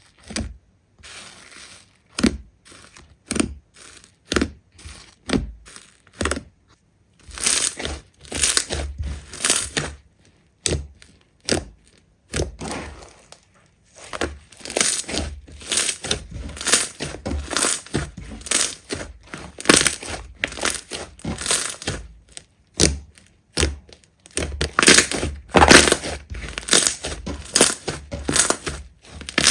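Slime being squeezed and pressed by hand, giving a rapid, irregular run of crackles and pops, broken by a few short pauses.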